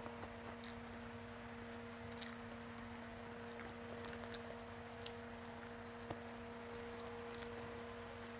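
Faint, close chewing with small wet mouth clicks as a person eats rice and mashed elephant foot yam by hand, with fingers squishing rice on a plate. A steady low hum runs underneath.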